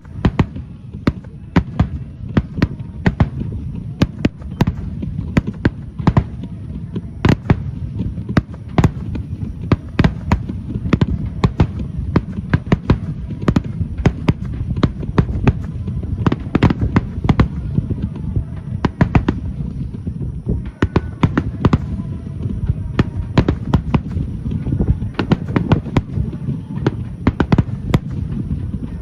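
Aerial fireworks bursting in quick succession: many sharp bangs, several a second, over a continuous low rumble.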